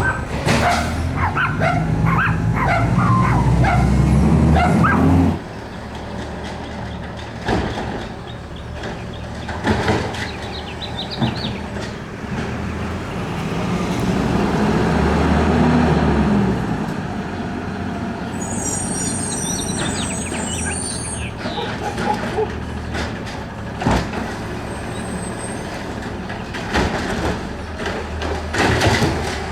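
Garbage truck's diesel engine running, loud for the first few seconds, then dropping and swelling again in the middle as it revs. Scattered sharp clanks and knocks, and a hiss of air about two-thirds of the way through.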